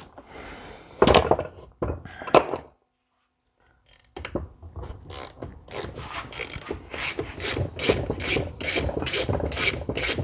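Hand ratchet being worked, clicking in a steady run of strokes about three a second, after a few sharp knocks of tools on metal and a short pause.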